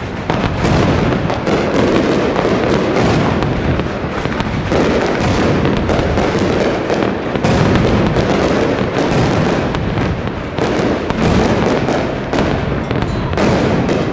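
Fireworks display: aerial shells bursting in a dense, continuous barrage of overlapping bangs.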